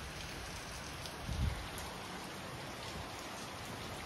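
Heavy rain falling steadily, an even hiss of rain on the ground, with one brief low thump about a second and a half in.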